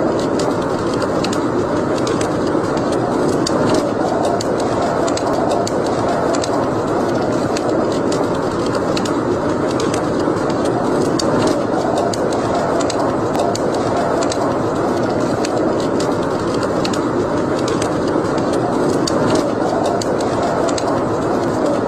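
Wood fire burning in a fireplace: a steady, even rush of flame with frequent sharp crackles and pops scattered through it.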